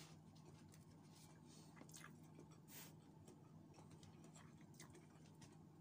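Faint chewing and small mouth noises of someone eating, with a few short faint clicks and a steady low hum underneath.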